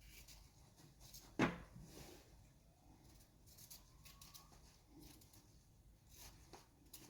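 Quiet handling sounds from making up feed: one sharp knock about a second and a half in, then faint clicks and rustles.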